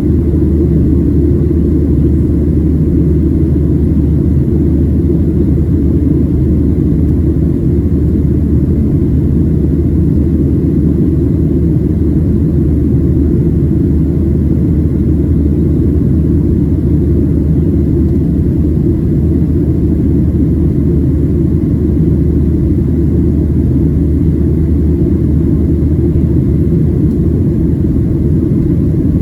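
Steady cabin noise of a Boeing 737-700 in its climb, heard from inside the passenger cabin: the CFM56-7B engines and rushing airflow blend into an even, deep rumble with a low hum underneath.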